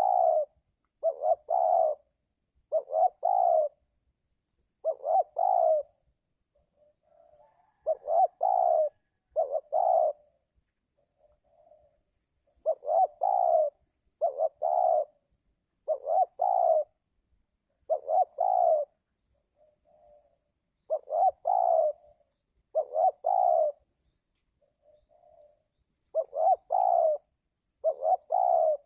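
Spotted dove cooing close by in repeated phrases of two or three coos, every couple of seconds. Much fainter coos come in some of the pauses, and there are faint high chirps throughout.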